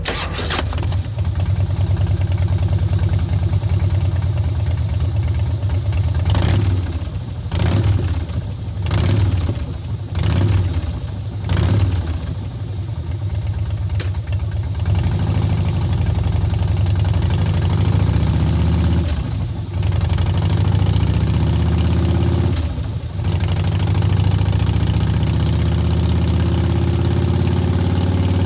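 2009 Harley-Davidson Softail Deluxe's Twin Cam 96 V-twin idling through a Bassani Turnout Pro Street exhaust, blipped several times about a quarter to halfway through, then settling back to a steady idle.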